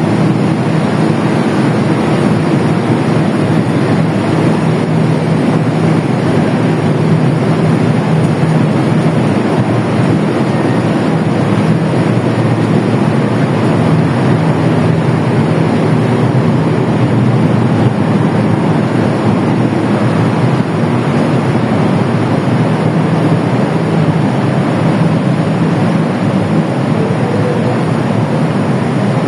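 Passenger train running through the station: a steady, loud rumble of wheels on rail with a constant low engine hum from the diesel locomotive.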